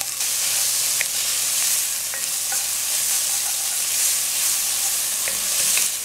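Chickpeas frying in hot coconut oil in a pot, a steady sizzle, stirred with a wooden spoon that makes a few light clicks.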